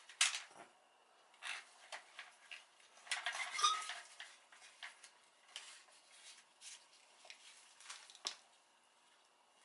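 Small metal parts and hand tools clinking and knocking during engine repair work: a string of separate clicks and clanks, with a brief metallic ring in the middle.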